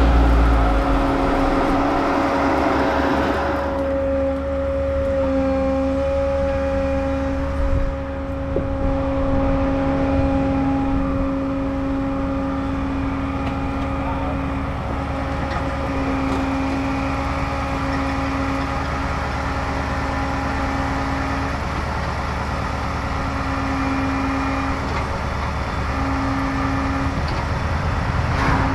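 Truck engine running at a steady speed with an even hum, louder for the first few seconds.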